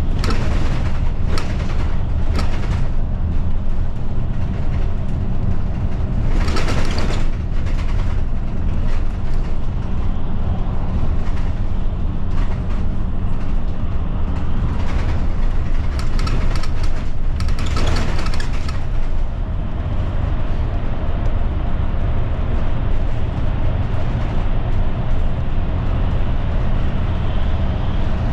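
Route bus running on the road, heard inside the passenger cabin: a steady low rumble of engine and tyre noise, with several brief louder rattles and swells of road noise.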